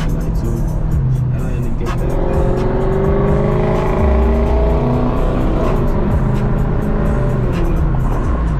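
Lexus SC430's straight-piped V8 exhaust pulling under acceleration, its pitch rising steadily for a few seconds from about two seconds in, then dropping as the revs fall. Music plays underneath.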